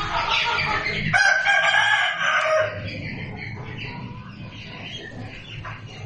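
A bird's loud, long call about a second in, holding one pitch for about a second and a half before fading, with more calling just before it.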